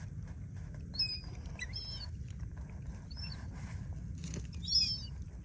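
Sparrows chirping: short, high chirps several times, a cluster about a second in, another near two seconds and the loudest just before the end, over a steady low rumble.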